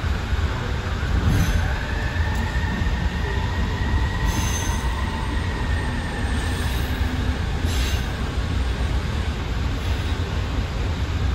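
AirTrain JFK's Bombardier ART 200 linear-induction train running on a curving elevated guideway: a steady low rumble, with a faint wheel squeal on the curve that rises and falls over several seconds. Three short sharp clacks stand out, a few seconds apart.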